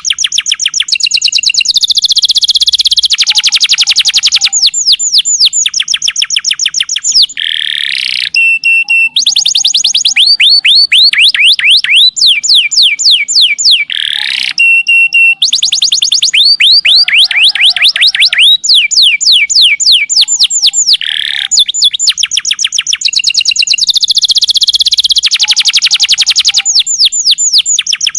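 Domestic canary singing loud, long song phrases of rapid trills and fast downward-sweeping whistled notes, almost without a break, the same run of phrases coming round about every six to seven seconds.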